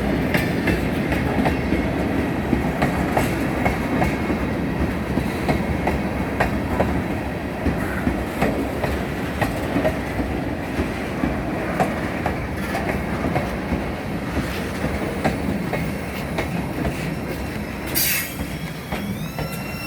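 Train rolling past, its wheels clacking over rail joints in a rapid, uneven run of clicks over a steady rumble that eases slightly. A brief loud burst comes near the end.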